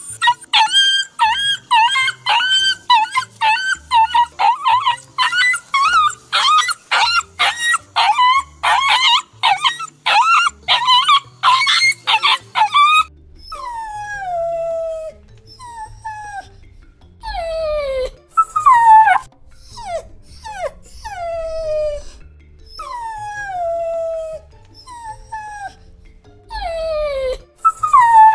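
Dogs whining and crying: rapid, high-pitched wavering whines for about the first half, then longer separate cries that each fall in pitch, about one every second or two.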